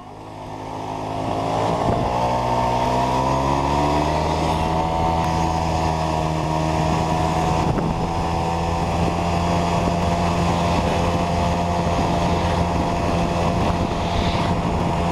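Small moped scooter engine pulling away, its pitch and loudness climbing over the first couple of seconds, then running steadily at cruising speed up a mountain road.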